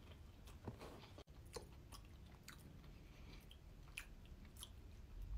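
Faint close-up chewing of a mouthful of tuna-and-avocado sandwich, heard as scattered small wet mouth clicks.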